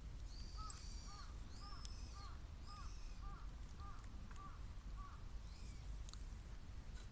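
A crow cawing, a quick run of about nine short calls, roughly two a second, with higher chirping from another bird over it.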